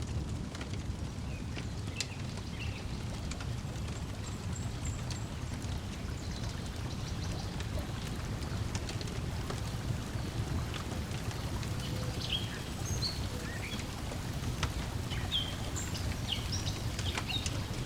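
Lakeside ambience: a steady low wash of lapping water under a wood fire crackling with scattered sharp pops. Birds chirp briefly, more often in the second half.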